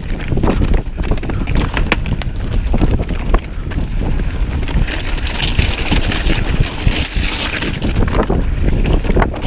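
Strong wind buffeting the microphone in a heavy low rumble, over the rattles and knocks of a Trek Slash mountain bike riding down a rocky trail. A rushing hiss swells from about five to seven seconds in.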